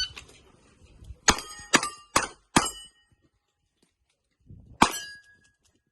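Revolver shots on steel plates in a timed string: four quick shots about half a second apart, each followed by a plate ringing, then a pause of about two seconds and a fifth shot with its plate ringing after. The string opens with the tail of the shot timer's start beep.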